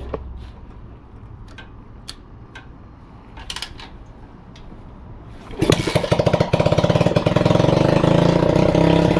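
A few light clicks and knocks, then about five and a half seconds in a 125cc pit bike's single-cylinder engine fires up and runs fast, revving up on its own, which the owner takes for an air leak.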